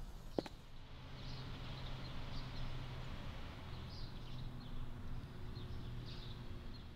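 Small birds chirping now and then, short high calls over a steady low hum, with a single footstep about half a second in.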